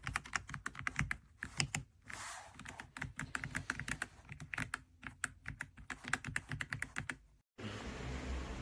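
Typing on an AULA F99 mechanical keyboard with pre-lubed linear switches: rapid, irregular runs of keystrokes with short pauses. The typing cuts off suddenly near the end and gives way to a steady low hum.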